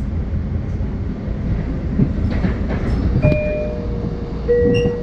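Long Island Rail Road train running past with a steady low rumble and occasional clicks from the wheels. Short steady squeals sound about three seconds in and again near the end.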